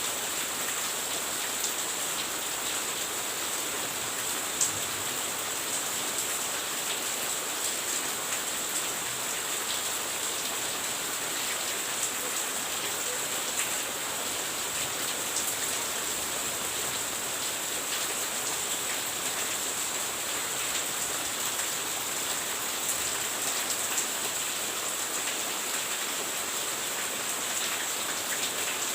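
Steady rain falling: an even hiss with scattered louder drop taps.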